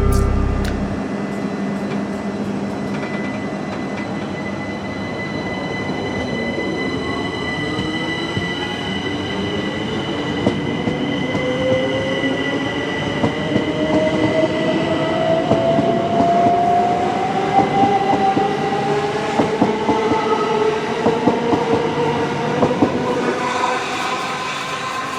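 Electric multiple unit train pulling away, its traction motor whine rising steadily in pitch over about twenty seconds, over a steady high tone. Clicking and rattling from the wheels on the rails grows louder in the second half.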